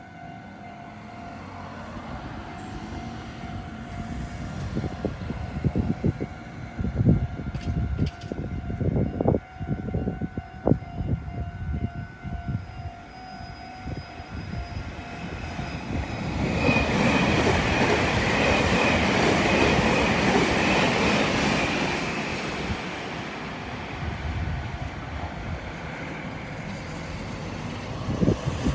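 Meitetsu Nagoya Main Line train passing over a level crossing, its wheels clattering over the rail joints for several seconds. A louder, steady rush of the train follows about halfway through and then eases off. Under the first part the crossing's warning signal sounds as a steady ringing tone.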